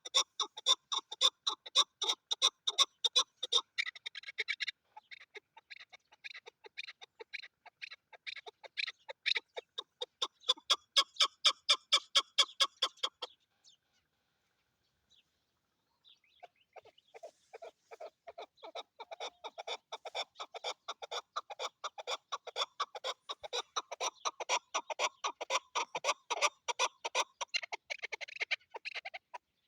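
Chukar partridge calling: a long run of rapid, repeated clucking notes, about four a second, that stops about 13 s in and starts again some three seconds later.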